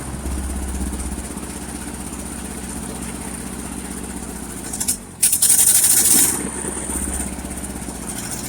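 1958 Ford 851 tractor's four-cylinder engine running steadily. About five seconds in, a brief loud hissing rush cuts in for about a second.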